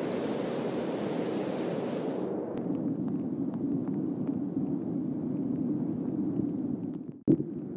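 Steady rush of flood-swollen creek water. The hiss loses its high end about two and a half seconds in, and the sound cuts out briefly near the end before a louder, uneven stretch.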